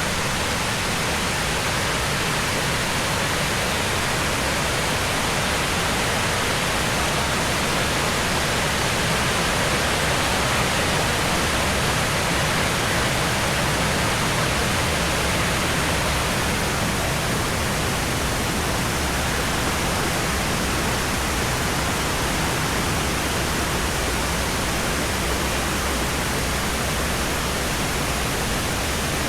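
Waterfall cascading down limestone tiers: a steady, unbroken rush of falling water.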